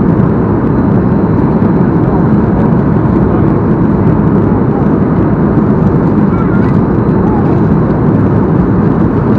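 Steady cabin noise inside a Boeing 737-8 on approach: the even rush of airflow and its CFM LEAP-1B engines, heavy and low, with a faint high whine above it.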